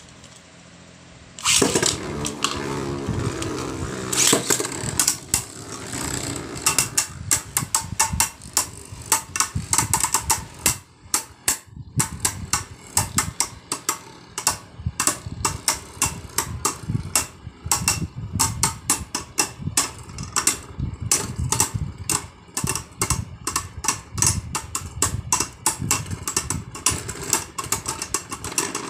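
Two Beyblade Burst spinning tops, White V Valkyrie and Arc Bahamut, launched into a plastic stadium about a second and a half in, whirring on the stadium floor and then clashing over and over in rapid, irregular clacks.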